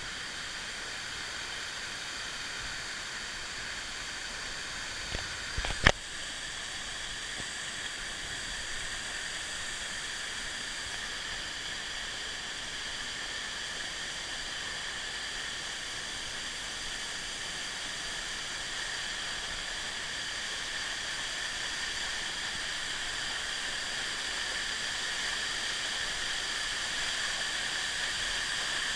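Steady rushing hiss of a waterfall. A few sharp knocks come about five to six seconds in.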